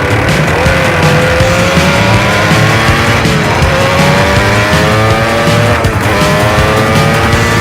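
Suzuki T500 two-stroke twin racing engine accelerating hard, its pitch climbing and dropping sharply at two gear changes. Background music with a steady beat plays over it.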